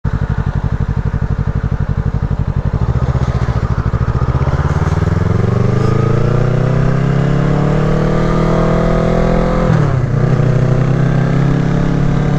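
Kawasaki Ninja 650's parallel-twin engine idling with an even pulse, then pulling away, its pitch rising steadily through the gear. About ten seconds in the pitch drops sharply at a gear change, and the bike then runs on at a steady pitch.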